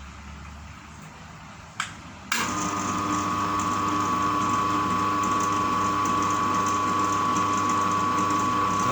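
Pellet-making machine (a converted meat grinder) switched on with a click about two seconds in, then running steadily with a high whine. It is running unloaded as a sound test, not yet assembled for pressing feed.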